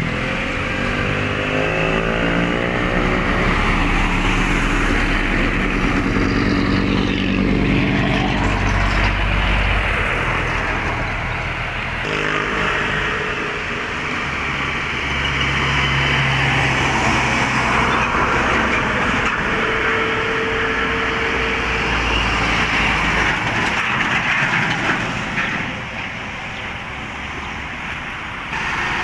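Highway traffic passing close by, one heavy vehicle after another: diesel truck engines running under tyre and road noise, each engine note swelling and giving way to the next.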